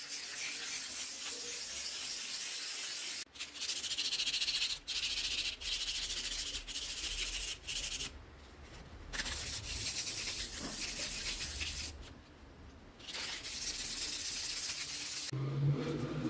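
Fine 400-grit sandpaper rubbed lightly by hand over the scratched cylinder sleeve of an air-suspension compressor, smoothing out the scratches in the bore. The hiss of sanding strokes runs on with brief breaks and two longer pauses, about eight and twelve seconds in.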